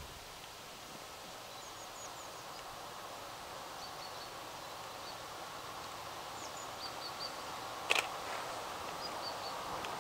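Distant approaching electric InterCity train: a faint steady rush that slowly grows louder. Small birds chirp in short high calls throughout, and there is a single sharp click about eight seconds in.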